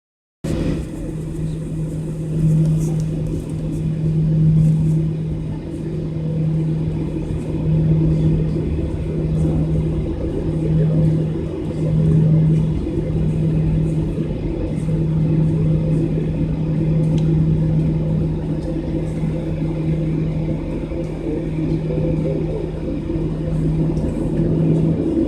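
Boeing 737-700's CFM56-7B jet engines running steadily: a low, constant hum over rumble and hiss that swells and eases slightly.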